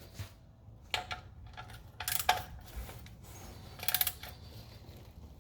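Ratchet wrench clicking in three short runs while the oil drain plug is snugged down onto its crush washer, the quickest run of clicks about four seconds in.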